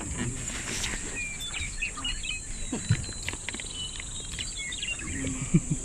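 Outdoor ambience: birds chirping in short scattered calls over a steady high-pitched insect drone, with irregular knocks and rustles close by.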